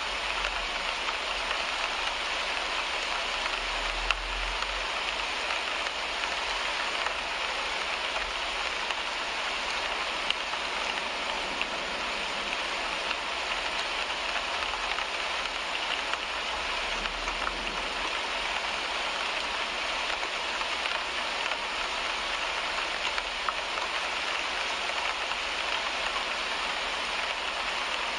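Steady rain falling on a car windshield, heard from inside the car, with a few sharper single drop hits. A faint low rumble runs underneath and swells briefly twice.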